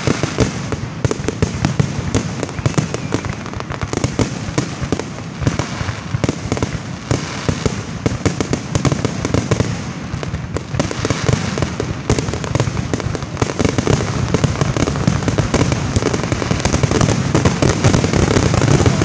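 Aerial fireworks shells bursting in a rapid, dense barrage of bangs and crackle, growing louder near the end.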